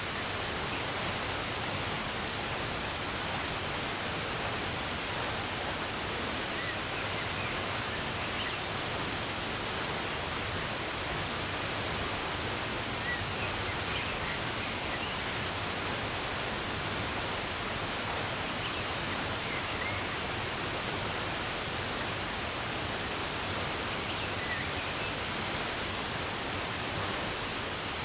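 Steady rushing of running water, an even hiss with no change in level, with faint short bird chirps now and then above it.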